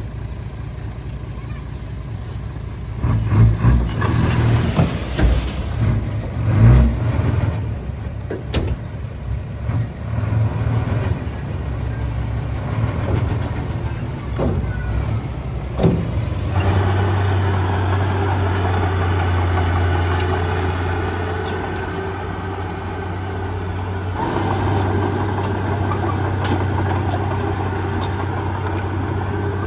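Heavy diesel machinery engine running. For the first half there are irregular clunks and knocks over the engine. About halfway through, the engine settles into a steady, louder drone.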